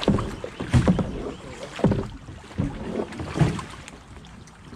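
Kayak paddle splashes and knocks in the water: five sudden strokes about a second apart, dying down near the end, over a low wash of water and wind.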